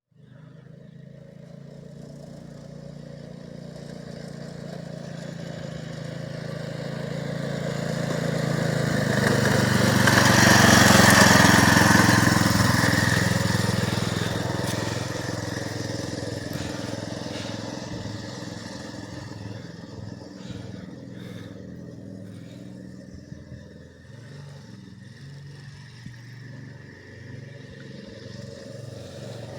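Mini bike's small engine running as it rides by, growing louder to its closest about eleven seconds in, then fading away again.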